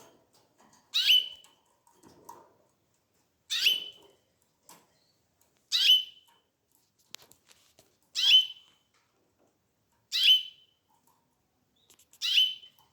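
Canary giving a short, sharp call about every two seconds, six times, each call sliding down in pitch.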